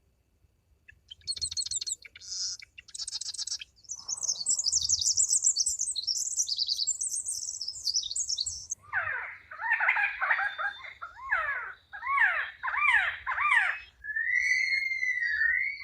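A sequence of different birds singing and calling. Buzzy high chirps give way to rapid high twittering, then to a run of louder repeated sweeping notes, and near the end to a warbling whistled song.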